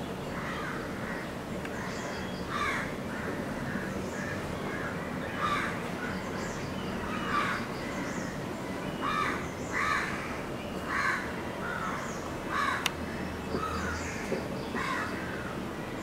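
A bird giving a string of short calls, irregularly about one a second, over steady forest background noise, with one sharp click about three-quarters of the way through.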